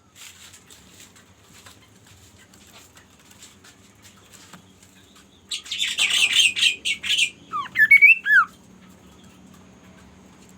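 A bird calls: faint light ticking and rustling at first, then about halfway through a loud rasping chatter lasting about two seconds, followed by a few quick swooping whistled notes.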